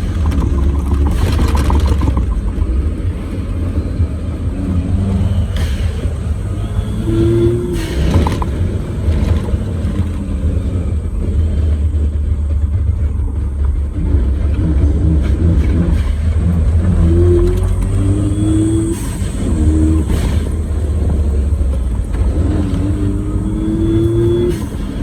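Suzuki Jimny JA11 driving on paved road on Geolandar X-MT mud-terrain tyres: a steady low rumble of engine and road noise, with the engine note rising several times as it accelerates.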